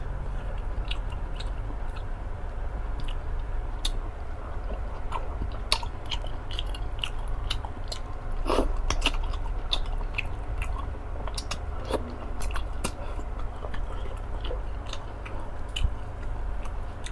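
Close-up mouth sounds of someone eating fufu: wet chewing with scattered clicks and lip smacks, over a steady low hum.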